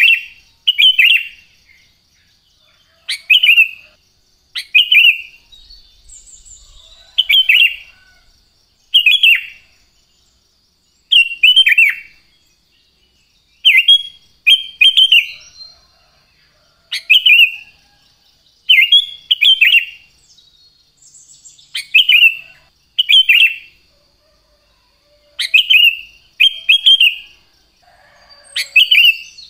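Sooty-headed bulbul (kutilang) singing: short, loud phrases that fall in pitch, often given in quick pairs, repeated every second or two.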